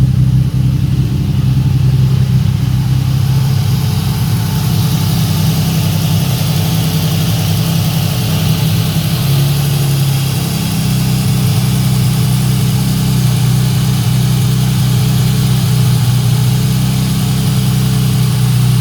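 Toyota 2JZ-GTE twin-turbo straight-six engine in a Nissan S14, idling steadily. A hiss grows louder a few seconds in.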